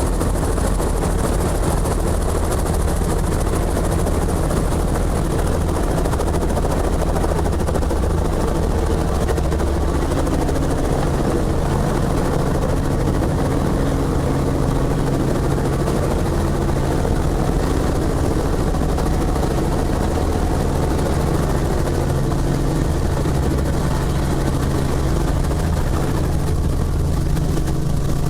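Helicopter running steadily, a constant loud drone of rotor and turbine with steady low tones and no change in pitch or level.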